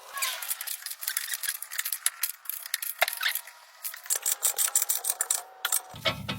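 Irregular light clicks and rubbing of small parts being handled.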